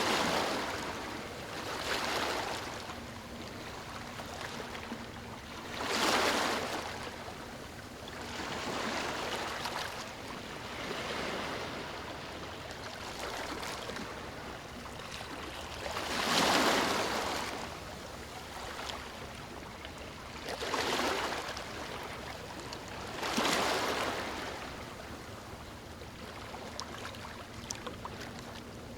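Waves breaking on a beach and washing up the shore, each swelling and fading in turn, about every three to six seconds, over a steady background wash of surf.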